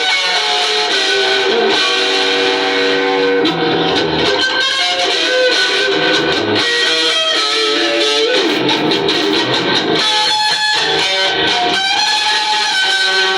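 Electric guitar playing rock-blues music, with notes and string bends throughout.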